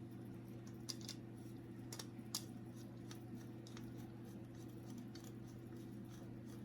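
Faint light clicks and taps of small printer parts being handled during disassembly, a handful of them in the first two and a half seconds, over a steady low hum.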